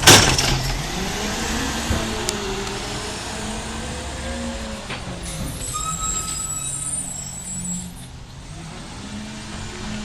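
Garbage truck's air brakes letting out a loud hiss, then its engine running and revving up and down as it moves off.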